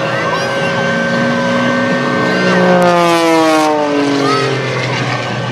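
Jet aircraft flying past low and fast: its engine noise peaks about three seconds in, then drops steadily in pitch as it moves away.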